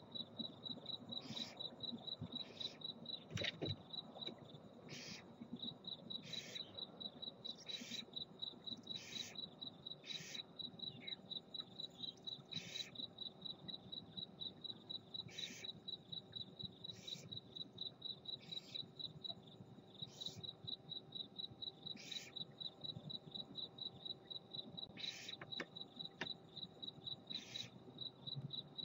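A cricket chirping steadily, about three or four chirps a second, with short, repeated hissing calls from barn owls over it every second or two.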